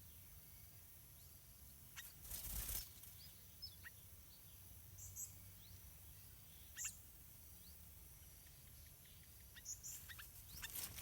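Faint, high, short chirps of small birds scattered through a quiet outdoor background, with a brief rustling burst about two seconds in.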